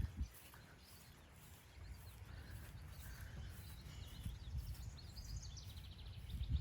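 Faint outdoor birdsong: scattered chirps, with a quick trill of repeated notes about four to five seconds in, over a low rumble on the microphone.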